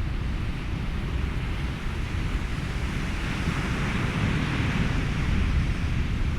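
Ocean waves washing in under steady wind with a low rumble, one wave swelling up about halfway through and easing off near the end.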